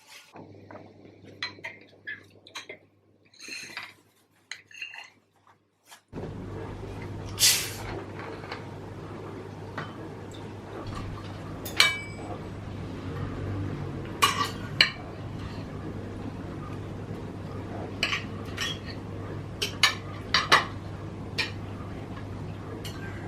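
Dishes and cutlery clinking: sharp, scattered knocks of crockery and metal utensils. After a sudden change about six seconds in, they sound over a steady low hum.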